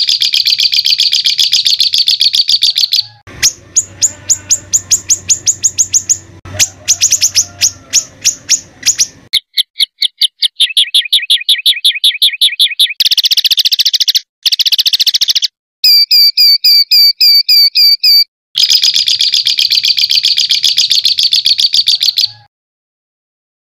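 Songbird 'tembakan kasar' masteran song: fast trains of harsh, repeated high notes, switching abruptly to a different rapid phrase every few seconds. It stops about a second before the end.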